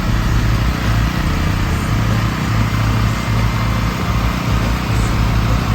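Generator engine running steadily at a constant speed, a low, even drone.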